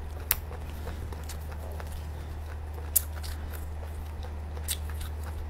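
Close-miked chewing of nem chua, Vietnamese fermented pork roll, with sharp mouth clicks about a third of a second in and again about three seconds in, over a steady low hum.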